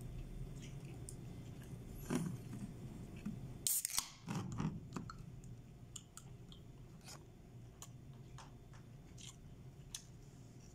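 Close-up chewing of chicken and rice: scattered soft mouth clicks and smacks, with one louder, brief noisy rustle just before four seconds in.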